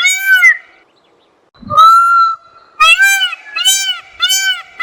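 An animal calling: short arched honking calls repeated about one and a half times a second. They stop for a moment about a second in, then one longer call rises from low and holds, and the quick repeated calls start again.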